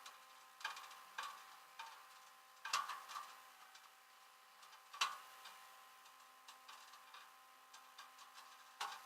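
Scattered light clicks and knocks, about eight at irregular spacing and the loudest about five seconds in, over a faint steady hum.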